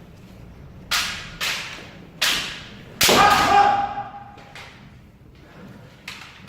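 Kendo bamboo shinai strikes and stamping footwork: a run of sharp cracks and thuds about a second in, at a second and a half, just after two seconds and at three seconds, the last one joined by a held kiai shout. Fainter knocks follow near the end.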